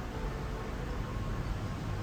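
Steady rushing noise of wind and sea water streaming past a moving cruise ship, with a low rumble and a faint steady hum.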